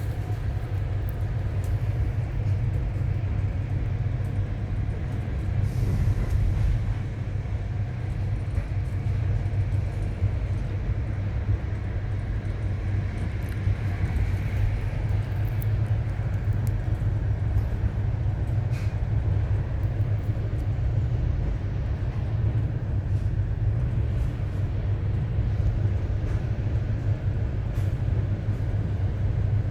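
Steady low rumble of a moving passenger train, heard from inside the carriage, with a few faint clicks and rattles.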